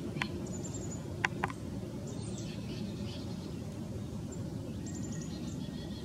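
Birds chirping and calling over a steady low background rumble, with three short sharp clicks in the first second and a half.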